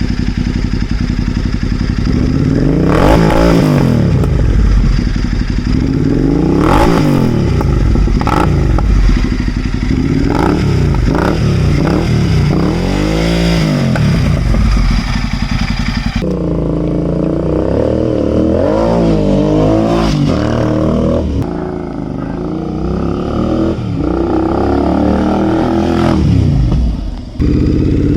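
Royal Enfield 650 parallel-twin motorcycle engine being revved repeatedly from idle through an exhaust, each blip rising and falling in pitch, to demonstrate the exhaust note. About halfway through it cuts abruptly to a recording with a different tone and more revs, which suggests another exhaust system, and there is another cut near the end.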